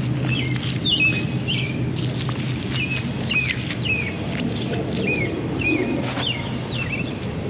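Small birds chirping, a steady run of short falling calls about two a second, over scattered soft pats and clicks as a gloved hand presses down wet mud in the lawn.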